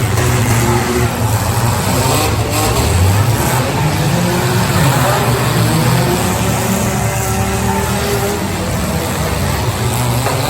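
Demolition derby cars' engines running loudly and revving, their pitch rising and falling.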